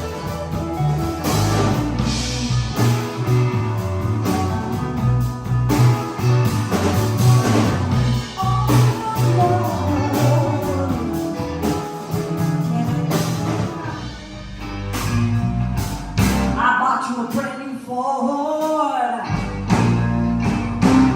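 Live blues band rehearsing: electric guitar, bass and drums playing with singing, the bass walking steadily under the guitar. About three-quarters of the way through, the bass and drums drop out for about two seconds, leaving only a bending melodic line, before the band comes back in.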